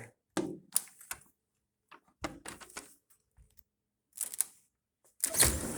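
A door's latch and handle being worked: clusters of sharp clicks and rattles, then a louder rushing, scraping noise near the end as the door is pulled open.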